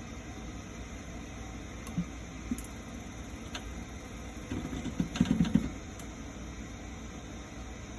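Baxi Neta Tec combi boiler running with a steady hum. There are a couple of sharp clicks, then a brief burst of rattling knocks about five seconds in. The owner likens the noise to something stuck, and the boiler shows error 385 for low voltage.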